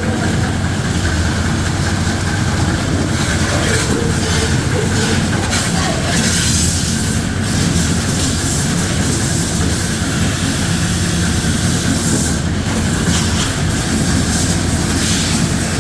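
Pressure washer running steadily, its pump humming under the hiss of the water jet spraying the car's engine bay.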